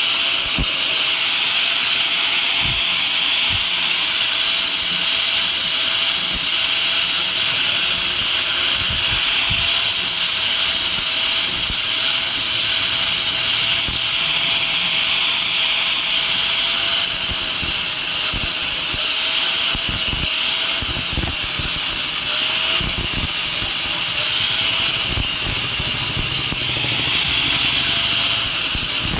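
A workshop machine running steadily: a loud hiss with a steady whine that dips briefly in pitch a few times, with scattered low thumps.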